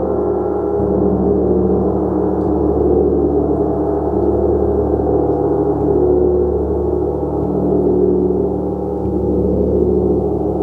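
A gong played continuously in a sustained, shimmering wash of many overlapping tones. The deep low hum swells and shifts every second or two as the gong is struck again beneath the ringing.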